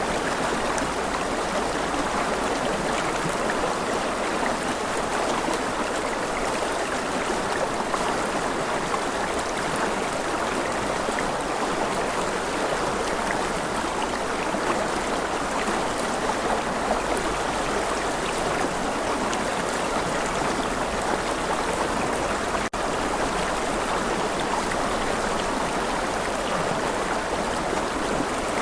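Steady rush of running water from a flowing stream, with a split-second dropout about three-quarters of the way through.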